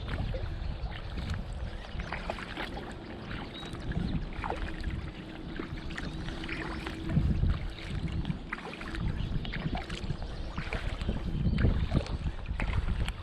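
Kayak paddling: paddle blades dipping, with water splashing and dripping in many small clicks, over a low rumble of wind on the microphone.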